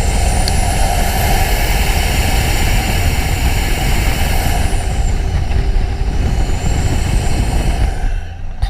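Motor vehicle engine running loudly with a strong low rumble and a broad rushing noise over it. The sound starts and stops abruptly.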